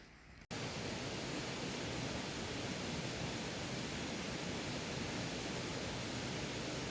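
Steady rushing roar of a waterfall, cutting in suddenly about half a second in.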